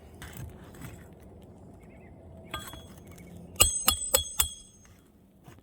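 A roofer's hatchet driving a roofing nail into an asphalt shingle: one light setting tap, then four quick, sharp hammer blows, each with a short metallic ring.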